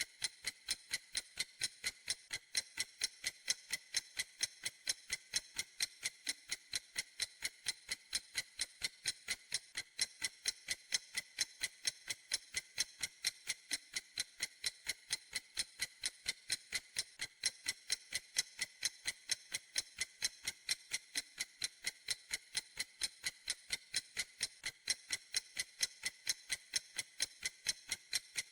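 A clock ticking in a quick, perfectly even rhythm of crisp, bright ticks, with no change in pace or level.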